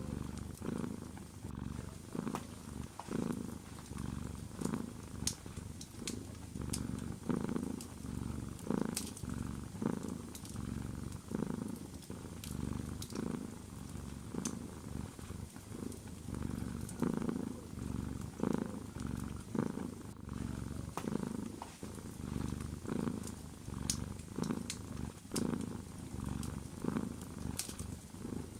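Domestic cat purring close up, a low rumble that swells and fades about once a second with its breathing, with the small sharp crackles of a wood fire scattered throughout.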